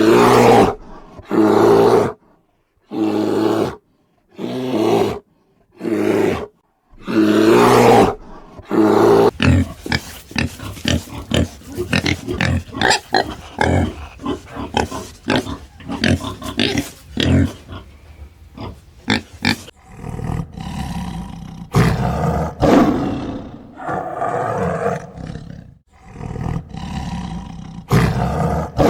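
A farm animal calling: about six separate, loud pitched calls of roughly a second each with short pauses between them, then a long stretch of quick, short sounds in rapid succession, and more calls running closer together in the last part.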